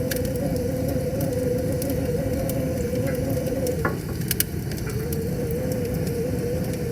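Wood fire crackling, with sparse sharp pops and a cluster of pops about four seconds in, over a steady rushing of river water. A wavering mid-pitched tone runs under it and breaks off for a moment just before the pops.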